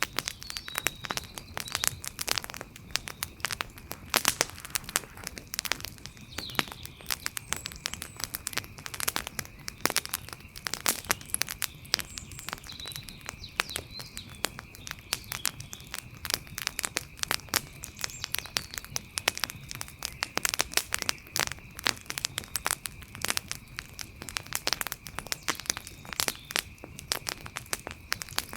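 Outdoor wood fire crackling, a dense run of irregular pops and snaps. Behind it, a steady thin high-pitched tone and a few short faint chirps.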